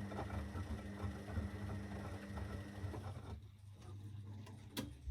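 Zanussi FL984CN washing machine during its wash: the drum motor hums steadily with a low rumble, then stops about three seconds in, and a single sharp click follows near the end.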